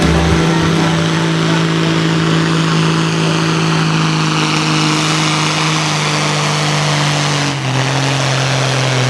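Farm tractor's diesel engine running hard under load as it pulls the weight sled, holding a steady pitch. Its revs drop suddenly about seven and a half seconds in as the pull comes to an end.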